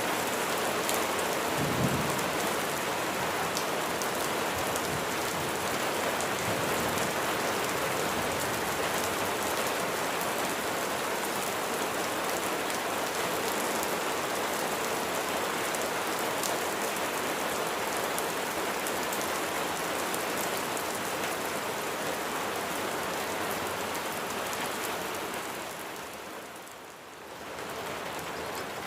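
Heavy rain falling steadily, a dense patter of raindrops on surfaces, with a brief low thump about two seconds in. Near the end the rain fades down for a moment and then comes back.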